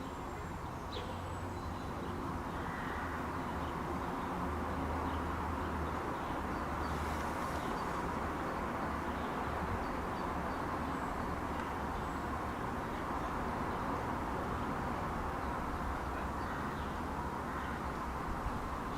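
Steady outdoor background rumble and hiss, with a few faint, short, high bird chirps scattered through it.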